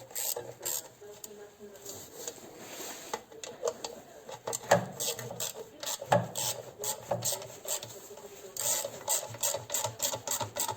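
Hand tool worked in quick repeated scraping strokes, several a second, with two sharper knocks about five and six seconds in.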